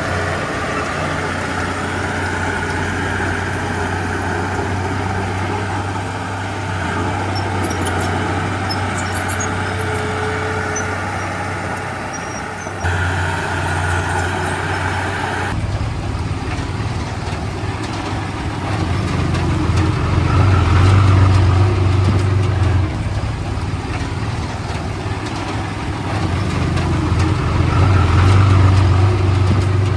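Heavy diesel engine of earthmoving equipment running steadily. It swells louder twice under load, about two-thirds of the way in and again near the end, and the sound shifts abruptly twice around the middle.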